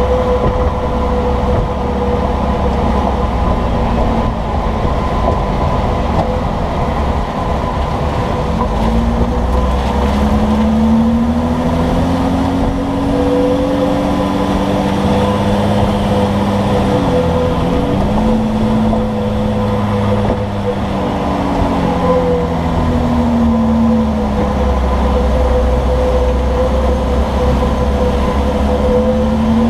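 Road and running noise of a moving vehicle heard from its underside near the leaf spring and sway bar: a steady low rumble with a constant tone, and a whine that rises and falls in pitch several times as the speed changes. No distinct clunk stands out.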